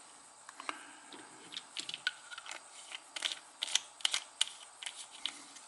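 Small tools and metal lighter parts clicking and tapping in an irregular run of light ticks while a filler valve and its seals are handled on the bench.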